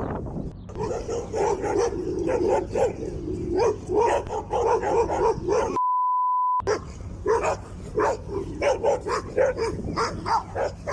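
A dog barking and yipping over and over, several short calls a second. About halfway through, a steady one-note bleep replaces all other sound for under a second.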